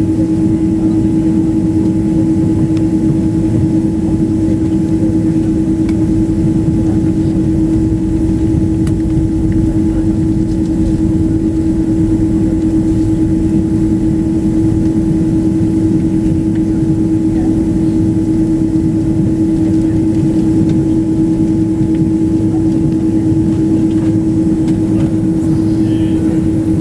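Steady airliner cabin noise before takeoff: the engines and air conditioning running, with a strong steady low hum over a rumbling hiss and no change in level.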